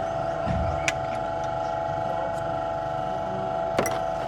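A steady mechanical hum with a fixed pitch, marked by a sharp click about a second in and another near the end.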